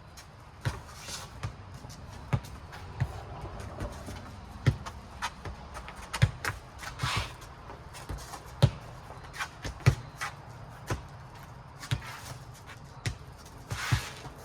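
A ball thumping repeatedly as it bounces on the ground and is struck by players, in an irregular string of sharp knocks, with shoe scuffs here and there.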